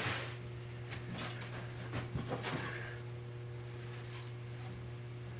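A few faint, brief clicks and rustles of small objects being handled, over a steady low electrical hum.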